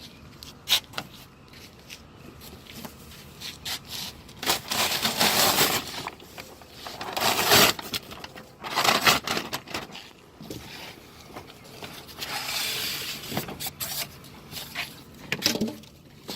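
Handling noises from unpacking plastic beehive parts: several sharp clicks and knocks, and a few longer stretches of scraping and rustling.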